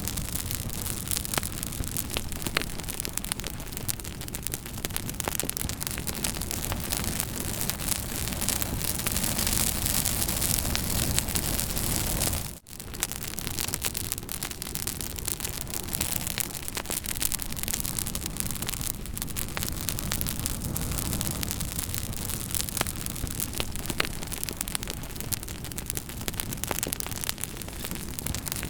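Campfire burning with frequent crackles and pops over a steady hiss. The sound drops out for a moment about twelve and a half seconds in.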